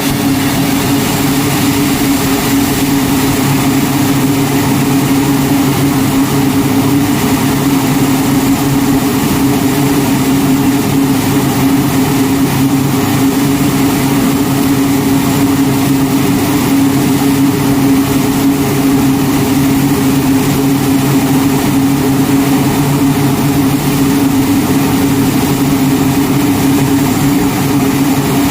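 Grumman C-2 Greyhound's twin turboprop engines running steadily, a continuous loud drone with a strong, even hum and no change in pitch.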